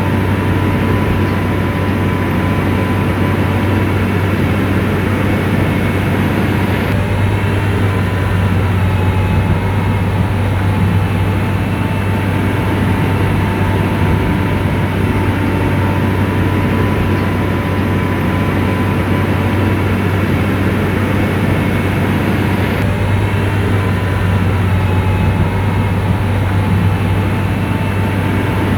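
Komatsu bulldozer's diesel engine running steadily, a deep drone with a thin steady whine above it.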